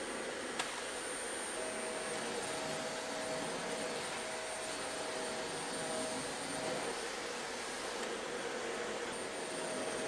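Dyson Ball Animal 2 upright vacuum cleaner running steadily: an even motor and airflow noise with a faint high whine, and one brief click just under a second in.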